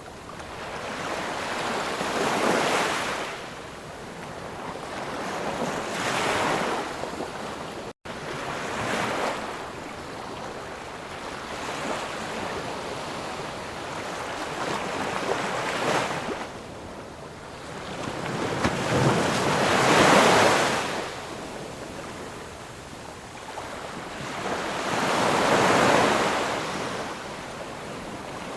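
Ocean surf: waves breaking and washing ashore, the rush swelling and fading every few seconds, with the loudest wave about two-thirds of the way through.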